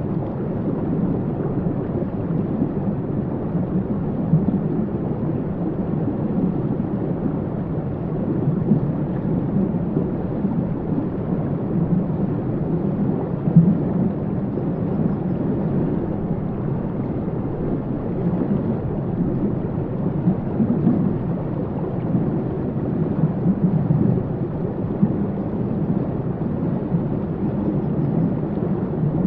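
Waterfall: falling water rushing in a steady, low rumble with no break or change.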